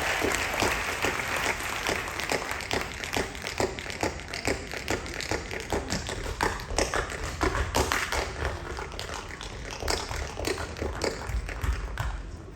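Tap dance: tap shoes striking a stage floor in quick, uneven runs of sharp taps.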